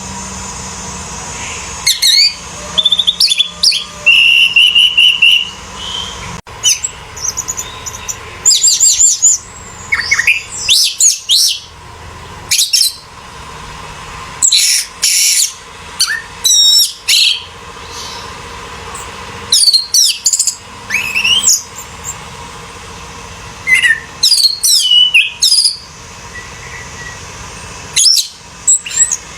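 Orange-headed thrush singing: loud, varied phrases of whistles, quick slurred glides and rapid twittering, each a second or two long with short pauses between.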